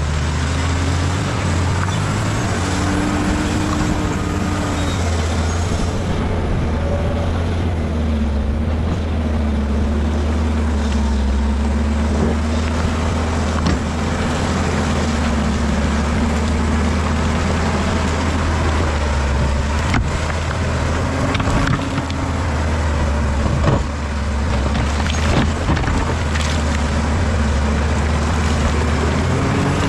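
Bulldozer's diesel engine running steadily under load, with a few sharp knocks in the second half.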